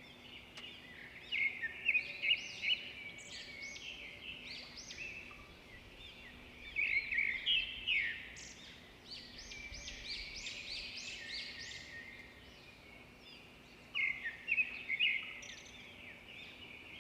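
Several birds chirping and singing in bursts of quick, overlapping high notes, with short lulls between the bursts.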